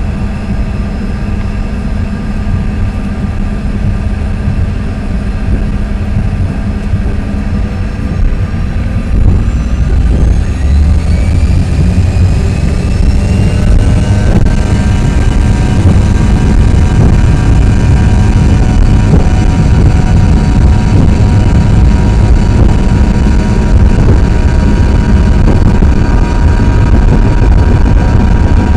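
Inside the cabin, the CRJ-200's two rear-mounted GE CF34 turbofans spool up to take-off power as a rising whine between about 9 and 14 seconds in. After that they hold a steady loud roar over a heavy rumble from the take-off roll.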